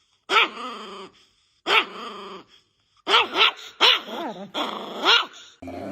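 Angry chihuahua giving a series of sharp, high barks, each trailing off into a growl, about seven in all and coming faster toward the end.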